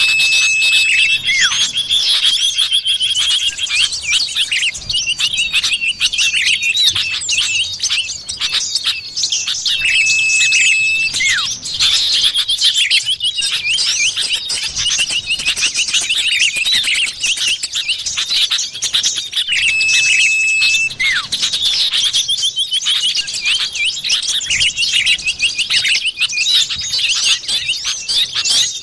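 Common iora (cipoh) calls played as a bird lure: dense, rapid chattering chirps with a flat, drawn-out whistle about a second long that comes back roughly every ten seconds.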